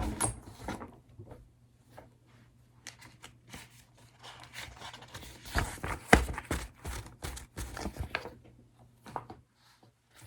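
Sheets of printed paper rustling and shuffling as they are handled, with light taps and clicks, busiest from about five to eight seconds in.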